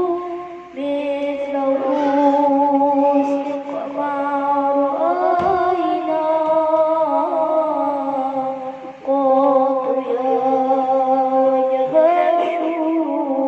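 A man singing sholawat, Islamic devotional chant, in long held phrases that waver and turn around each note, with short breaks for breath about a second in and near nine seconds in.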